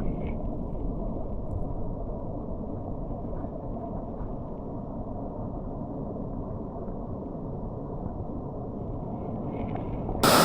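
Steady, muffled rushing of a mountain stream, dull with no high end.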